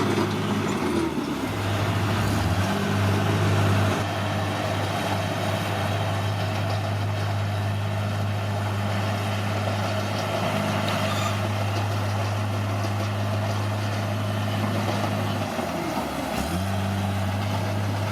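Bulldozer's diesel engine running steadily, its pitch dipping briefly and recovering twice, about a second in and again near the end.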